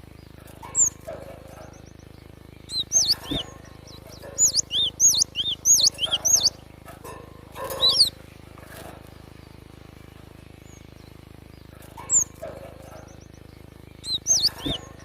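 Cinereous tit (gelatik batu) calling in groups of quick, high, curved chirps, with pauses of a few seconds between groups, over a steady low hum.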